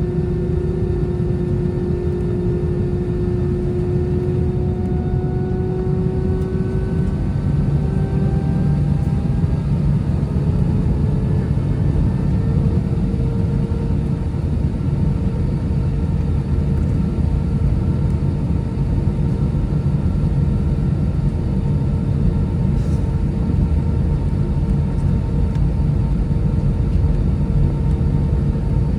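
Airbus A320's CFM56 jet engines running at low power, heard from inside the cabin as a steady low rumble with a faint whine. The whine's pitch shifts up about ten seconds in.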